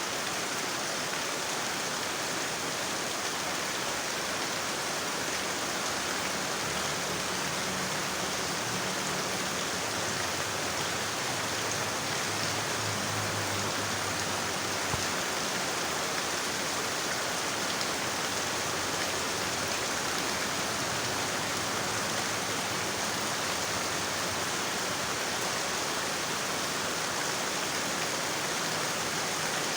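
Heavy rain falling steadily, an even hiss of rain with no break. A faint low drone rises under it for several seconds near the middle.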